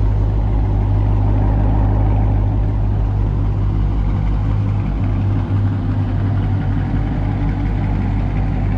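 Two Dodge Charger Hemi V8s, a 5.7 L and a 6.4 L, idling together through mid-muffler-deleted exhausts with a steady, deep idle.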